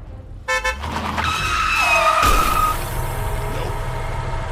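Vehicle sound effects: a short horn-like honk about half a second in, then a tyre screech lasting over a second, then a vehicle engine running steadily.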